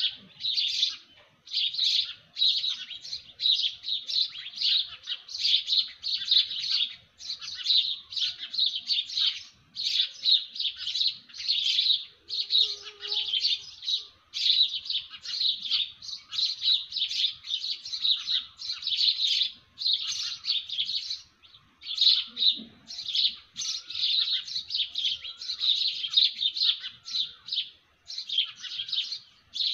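Birds chirping in a dawn chorus: dense, rapid, high chirps in quick phrases, one after another with only brief pauses.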